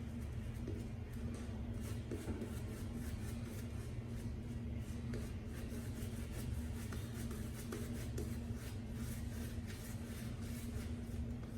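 Boar-bristle shaving brush working up lather from a glycerin-style Erasmic soap, with quick, irregular scratchy strokes of wet bristles. A steady low hum sounds in the background.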